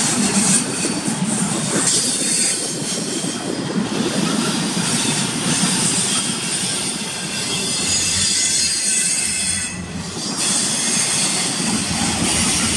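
Intermodal freight cars of a passing train, double-stack well cars and then trailer-carrying flatcars, make a steady rolling noise of steel wheels on rail. It dips briefly about ten seconds in.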